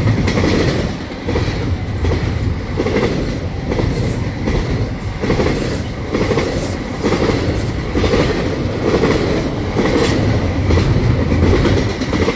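Intermodal freight train's container cars rolling past close by: a steady loud rumble with the wheels clicking and clacking over the rails.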